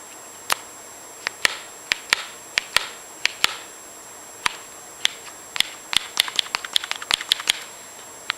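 AKA Viking paintball marker firing shot after shot, its ram freshly fitted with new o-rings: each shot is a sharp crack followed by a short hiss of air. The shots come irregularly, with a quick string of them about six to seven and a half seconds in.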